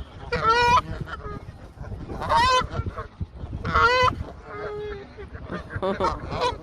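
Geese honking: three loud honks about a second and a half apart, followed by a run of shorter, softer calls near the end.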